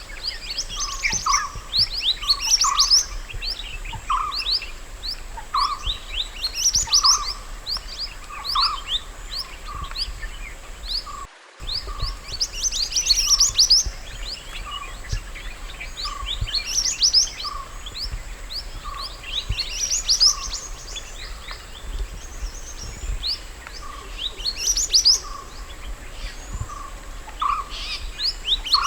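Mantenan gunung songbird singing: repeated quick bursts of high, sharp chirps with short lower notes beneath, a new phrase every second or so, broken by a brief dropout near the middle.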